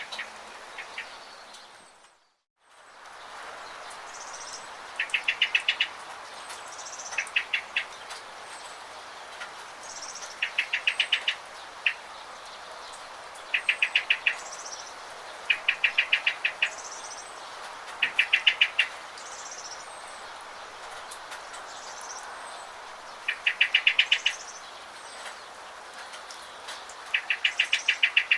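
A songbird repeats a short, rapid trill of evenly spaced notes every few seconds, with fainter high chirps from other birds, over a steady hiss of rain. The whole sound cuts out for about half a second about two seconds in.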